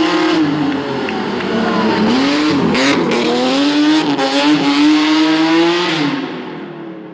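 BMW 3 Series drift car's engine revving hard, its pitch dipping and climbing as the throttle is worked. A couple of sharp cracks come around three and four seconds in, and the engine sound dies down near the end.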